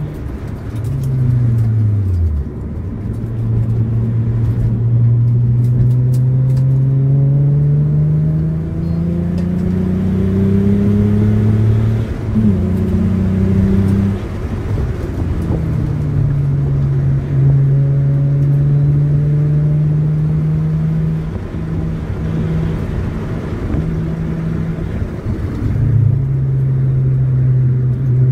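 Hyundai Tiburon's 2.7-litre V6 engine heard from inside the cabin while driving: the engine note falls away in the first two seconds, then climbs steadily for about ten seconds as the car accelerates. It drops about halfway through, runs at a steady pitch, and steps down once more near the end, as with gear changes in a manual car.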